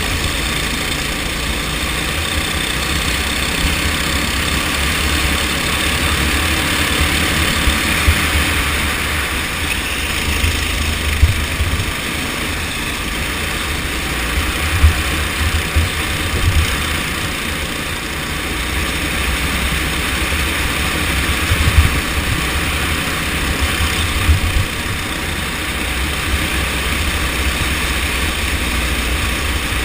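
Go-kart engine running steadily through a race, with a heavy low rumble and a few short louder bumps.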